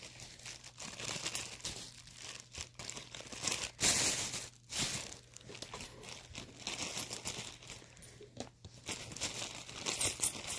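Thin plastic bags crinkling as they are handled, in irregular bursts, the loudest about four seconds in.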